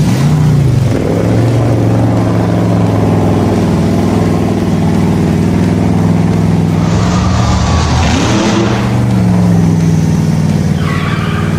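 Vehicle engine running steadily at high revs, its pitch swooping up and back briefly near the start and again about eight seconds in, with a hissing rush partway through.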